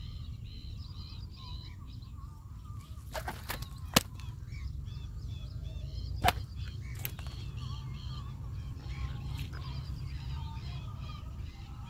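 Birds calling repeatedly, many short chirps, over a steady low rumble of wind on the microphone. A few sharp clicks cut in, the loudest about four seconds in.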